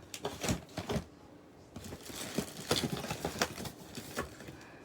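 Plastic packaging and small items rustling and clicking as they are handled and sorted, with irregular light taps and crinkles.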